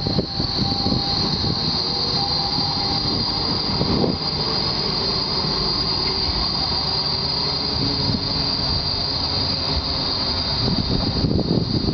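Tram running on rails with a steady, high-pitched wheel squeal held throughout over a low rolling rumble.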